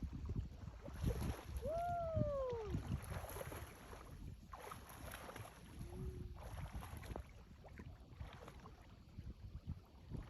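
Wind buffeting the microphone at the sea's edge, with water moving and splashing in an uneven low rumble. About two seconds in there is one short call that rises and then falls in pitch.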